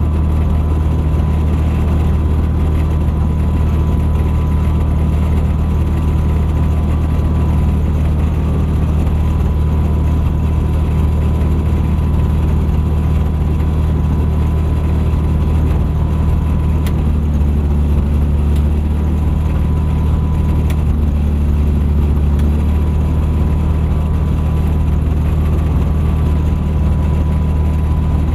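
Thruster light aircraft's engine and propeller running at a steady, unchanging drone in flight, with a thin steady whine above it.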